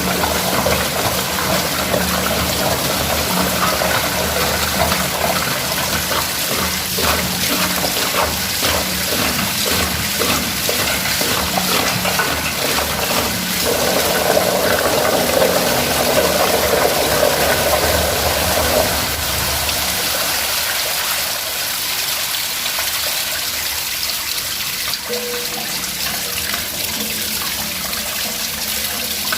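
Water pouring out of a pressure booster pump's air tank through its opened union as the tank drains. The flow is heavier around the middle and eases off in the last third.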